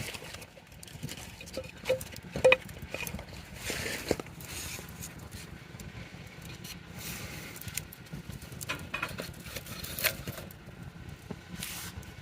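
Wood campfire crackling, with irregular sharp pops of burning wood; the loudest pops come about two and a half seconds in and again near ten seconds.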